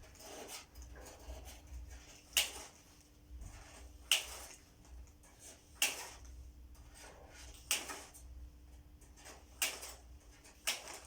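A series of six short, sharp clicks spaced about one to two seconds apart, over a steady low hum.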